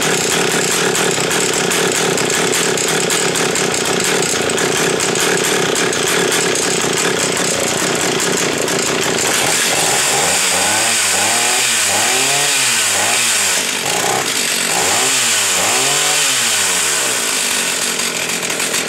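Stihl 032 AVEQ two-stroke chainsaw running steadily at high speed, then from about ten seconds in revved up and down repeatedly, about once a second.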